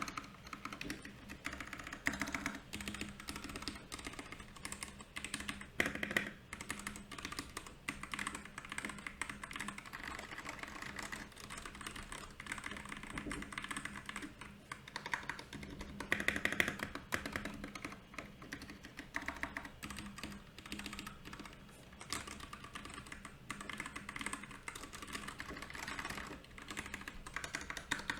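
Steady, continuous typing on a Royal Kludge RK68 mechanical keyboard: a dense run of key clicks and clacks, with a few louder flurries.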